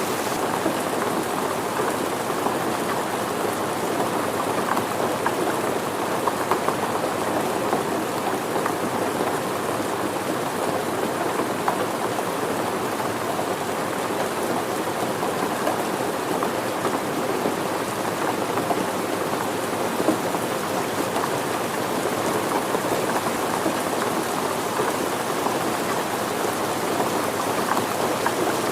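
Steady rain falling: an even hiss of rain with scattered patters of individual drops.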